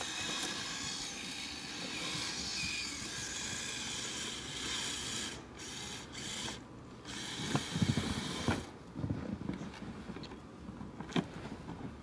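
Kyosho Blizzard RC snowcat's electric motor and rubber tracks running and scraping through snow, stopping and starting. There are intermittent low crunches of packed snow in the second half.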